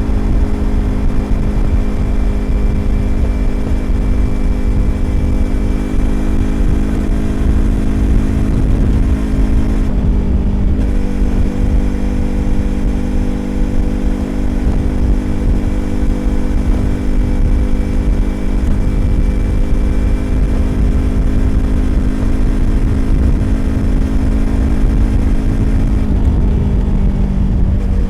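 Yamaha YZF-R25 parallel-twin engine through a Prunus aftermarket exhaust, cruising at steady revs over wind and road rumble. The engine note dips briefly about ten seconds in and again near the end.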